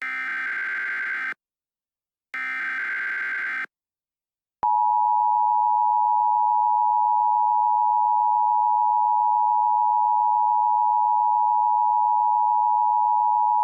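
Emergency Alert System SAME header: two buzzy digital data bursts, about a second each and a second apart. About four and a half seconds in, the EAS two-tone attention signal (853 and 960 Hz together) starts and holds steady and loud.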